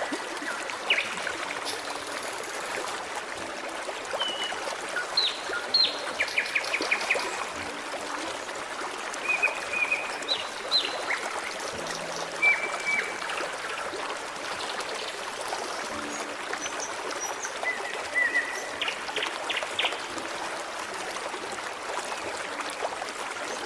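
Forest stream trickling steadily, with birds chirping over it in short calls and quick trills every few seconds.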